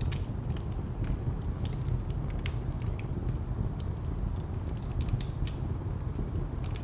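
Wood fire crackling with irregular sharp pops and snaps, over a steady low rumble of distant traffic.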